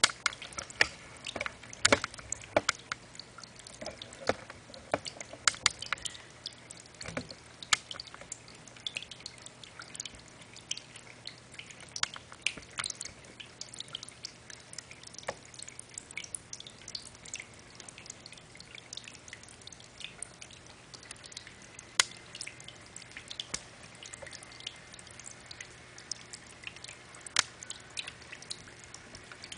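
Cascading water fountain: water dripping and splashing in irregular drops over a faint steady hum.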